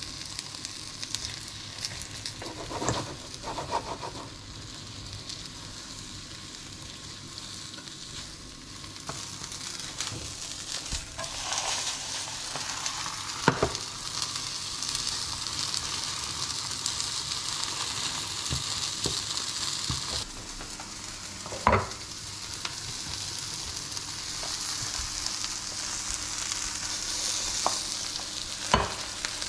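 Omelette sizzling in a nonstick frying pan, the sizzle swelling about a third of the way in and dipping briefly about two-thirds in. A few sharp knocks and light scraping from the silicone spatula and pan.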